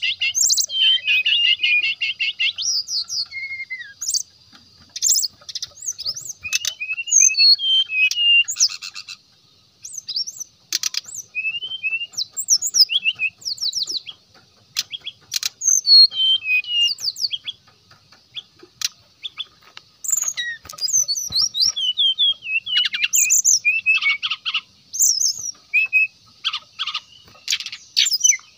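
Brown-chested jungle flycatcher singing a fast, varied run of clear whistled notes that slur up and down, in phrases broken by short pauses.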